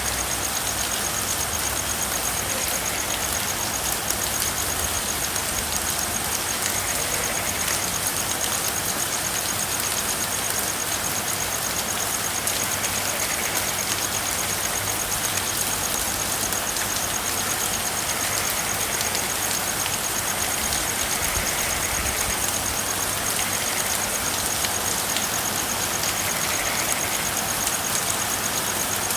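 Steady rain falling, with a continuous fine high-pitched pulsing trill running through it and a low hum underneath.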